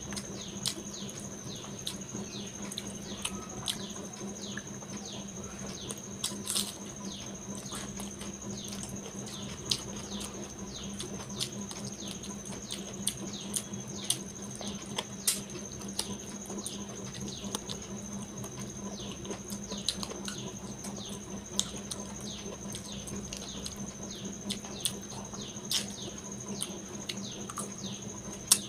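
Close-miked eating: wet chewing, lip-smacking and mouth clicks, many small sharp clicks and squelches a second, as rice and curry are eaten by hand. A steady faint high whine and low hum run underneath.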